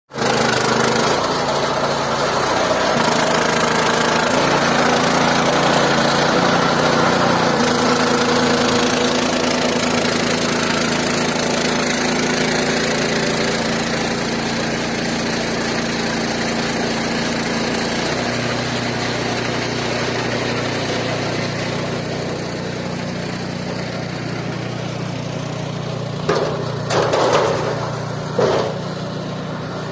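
Engine of a mobile band sawmill running steadily, its pitch shifting a few times. A few brief louder noises come near the end.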